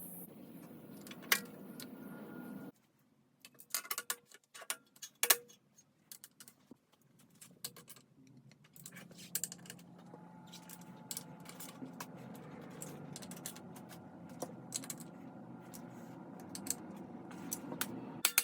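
Metal hand tools and parts clinking and tapping in irregular clicks, over a steady low hum that cuts out about three seconds in and returns near nine seconds.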